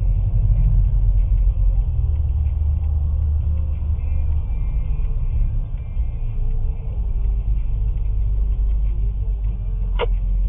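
Steady low rumble of a car's engine and road noise, heard from inside the cabin through a dashcam's microphone. There is one sharp click near the end.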